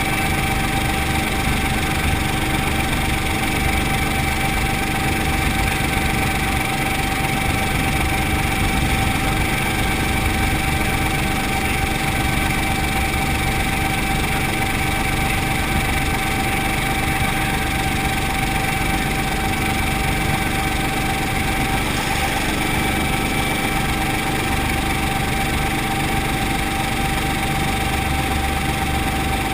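Brantly B2B helicopter's piston engine and rotor running steadily, a constant drone with a steady whine on top and no change in pitch.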